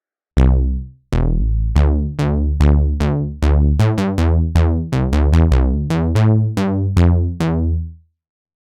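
Roland System-100 software synthesizer preset playing a bass-heavy sequence of about twenty short plucky notes. Each note opens bright and quickly closes down as the filter shuts, and the run stops about eight seconds in.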